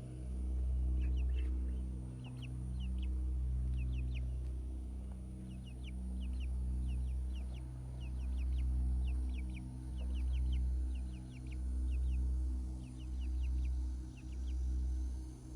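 Chickens calling in short high chirps that come in quick clusters, over background music with a deep, pulsing bass line.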